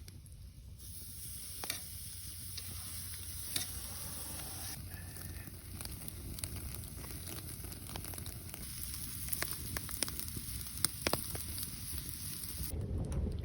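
Food sizzling as it fries in a pan over a wood fire, a steady hiss with scattered sharp pops and crackles.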